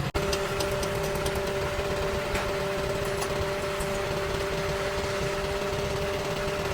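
A motor running steadily with a constant, even whine, and a few faint clicks over it.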